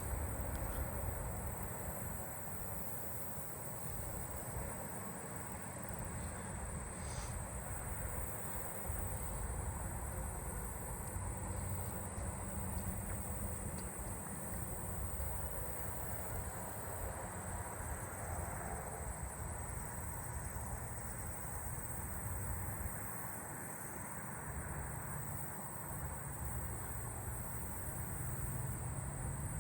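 Steady, high-pitched trilling of late-summer crickets and katydids, unbroken throughout, over a low uneven rumble.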